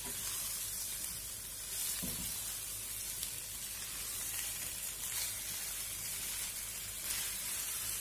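Boiled potato and taro (arbi) pieces frying with dry spices in a non-stick pan, sizzling steadily while a wooden spatula stirs them. There is one soft spatula stroke about two seconds in.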